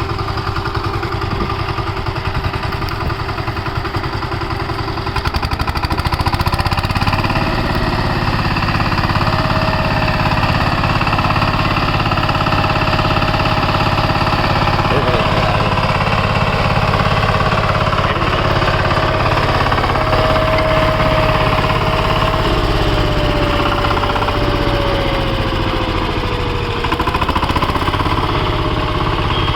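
VST Shakti 130 DI power tiller's single-cylinder diesel engine running steadily. It picks up speed and gets louder about six seconds in, then dips briefly near the end before picking up again.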